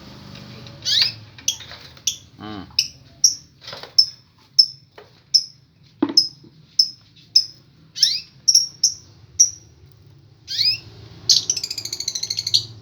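Small bird chirping: short, sharp high chirps at about two a second, then a fast warbling trill near the end. A few brief knocks come in between.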